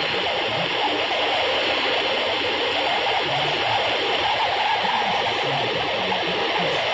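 AM radio static on 810 AM at night: a steady hiss with faint wavering tones underneath, like distant stations breaking through the interference.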